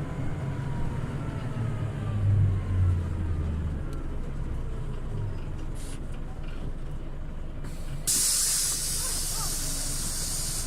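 Scania OmniLink CL94UB city bus heard from inside while under way: engine and drivetrain running with a low rumble that swells about two seconds in, and a falling whine in the first few seconds. About eight seconds in, a loud compressed-air hiss from the bus's air system starts suddenly and keeps going.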